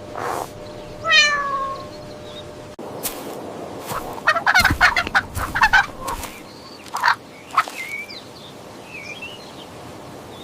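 Domestic cat meowing: a falling call about a second in, then more short calls. A cluster of short sharp noises comes in the middle.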